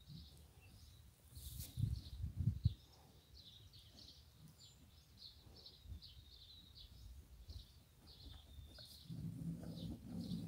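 Small birds chirping over and over in the background. A few low thumps come about two seconds in, and a low steady hum sets in near the end.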